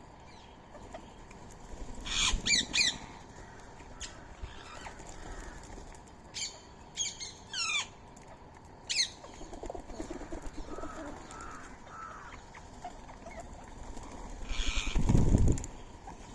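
Indian ringneck parakeets giving short, sharp squawks in scattered groups of a few calls each. Near the end comes a louder flurry of wing flaps.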